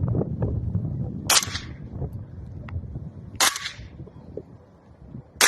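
Suppressed 5.56 rifle firing single shots, two about two seconds apart and a third at the very end, each a sharp crack with a short tail, almost like the sound of a .22. Wind buffets the microphone underneath.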